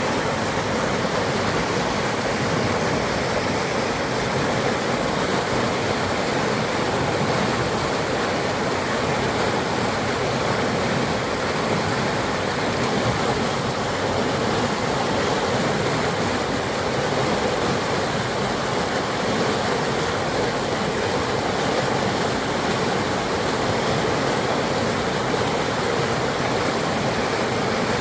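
River in flood after heavy rain, its fast water rushing in a loud, steady, unbroken wash.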